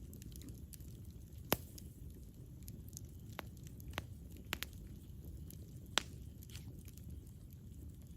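Campfire burning: a low steady rumble of flames with scattered sharp crackles and pops from the burning wood, the two loudest pops about a second and a half in and about six seconds in.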